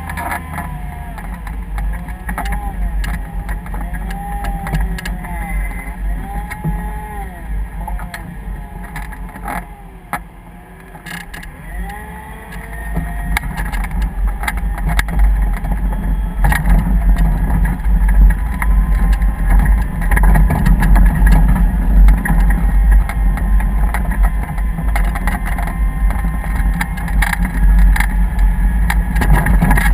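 A vehicle motor running with a heavy low rumble that grows louder about thirteen seconds in. Through the first twelve seconds a wavering tone rises and falls over it.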